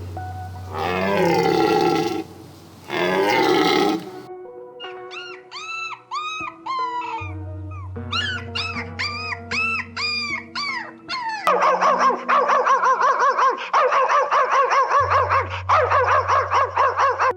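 A series of animal calls over background music with sustained notes. The first two are long calls that fall in pitch, followed by short arched calls repeating about three times a second. From about two-thirds of the way in there is a dense, fast chirping.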